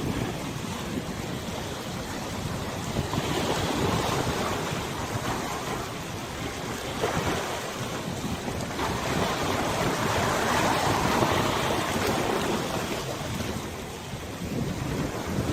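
Wind gusting across the microphone over river water washing and lapping: a steady rush that swells and eases, strongest about two-thirds of the way through.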